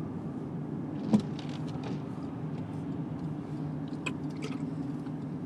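Steady low drone of a car driving, engine and road noise heard from inside the cabin, with a sharp knock about a second in and a few faint clicks later.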